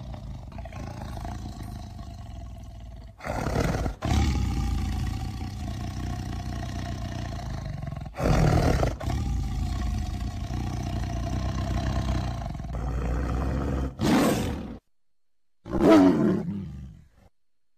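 Tiger growling and roaring: a long low growl with louder roars about three, eight and fourteen seconds in. The loudest roar comes near the end and falls in pitch as it fades.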